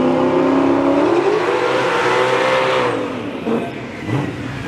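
Drag race car engine running hard under acceleration. Its pitch climbs, then drops about three seconds in, and the engine grows fainter.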